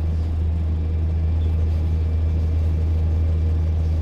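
A bus's diesel engine and drivetrain running, heard from inside the passenger cabin as a steady, unbroken low drone.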